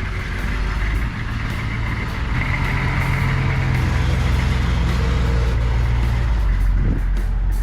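Food truck's engine running at low speed while the truck is slowly manoeuvred into place. Its note rises a little about two seconds in and settles back down near the end.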